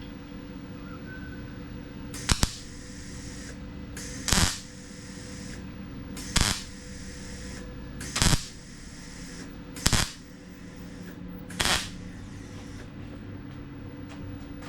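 MIG welder laying six short tack welds into thin sheet steel, one about every two seconds, each a brief sharp crackling burst, stitching a patch in with overlapping tacks. A steady low hum runs underneath.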